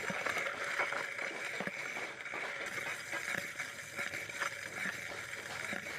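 Motorcycle disc brake pad rubbing on the rotor as the wheel turns: a steady, high-pitched scraping hiss with faint irregular ticks. It is the 'ghis ghis' rubbing noise the mechanic puts down to dust build-up and a pad worn down on one side.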